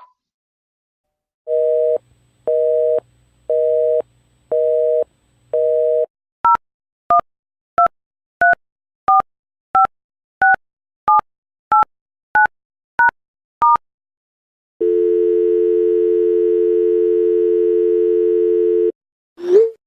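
Telephone line tones played as sound effects: a busy signal of five evenly spaced pulses, then twelve touch-tone keypad beeps as a number is dialled, then a steady dial tone for about four seconds. A short blip follows near the end.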